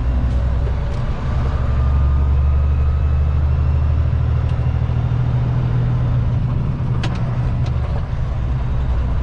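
Kenworth T660 semi truck's diesel engine droning under load, heard from inside the cab while driving. The low drone swells about a second in and eases off after about six seconds, with a faint rising whine, and a few light clicks near the end.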